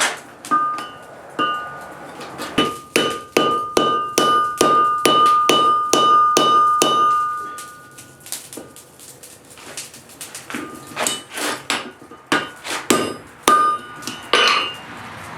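A blacksmith's hand hammer forging steel on an anvil, with the anvil ringing after each blow. A fast, steady run of strikes, two or three a second, breaks off about halfway through; after a pause a second, more uneven group of blows follows.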